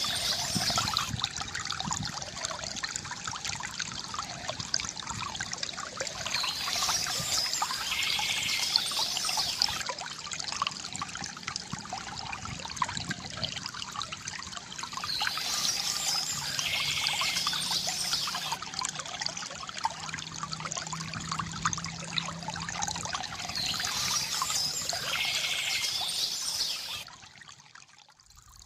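River water gurgling and trickling steadily, swelling every eight or nine seconds, with a brief higher sound recurring on the same cycle. The sound drops away sharply near the end.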